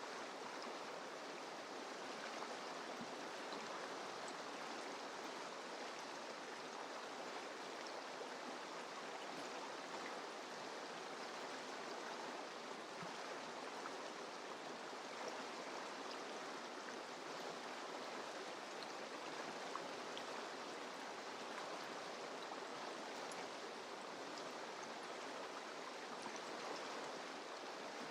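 A mountain river flowing over rocks: a steady, even rush of water.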